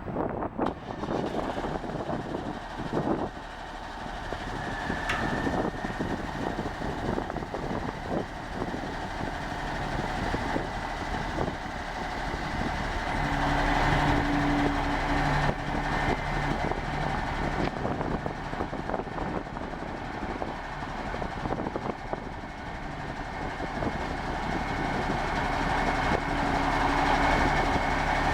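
The 1984 Peterbilt 359 dump truck's Cummins NTC 400 six-cylinder turbo diesel running under way. Its sound builds twice, with a faint high whine over it in the second half.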